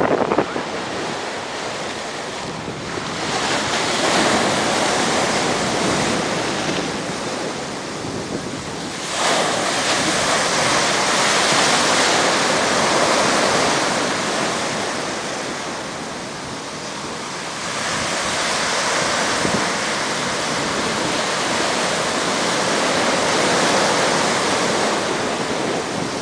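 Ocean surf breaking on the shore: a continuous wash of noise that swells and ebbs with each incoming wave, with a sharp surge about nine seconds in.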